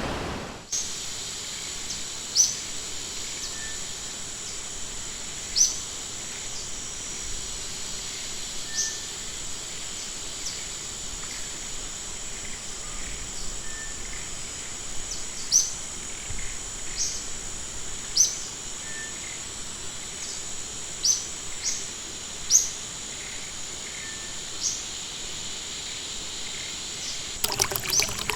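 Forest ambience: a steady high-pitched drone with short, sharp bird chirps at irregular intervals, about a dozen in all. Near the end it gives way to running water.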